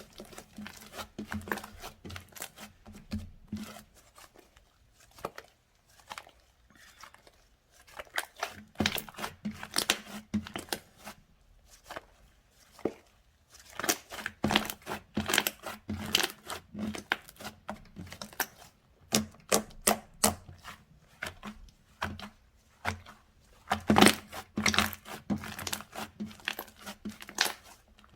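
Hands squeezing, poking and stretching slime: irregular runs of sticky clicks, crackles and small pops, with a couple of quieter pauses and one sharper pop near the end.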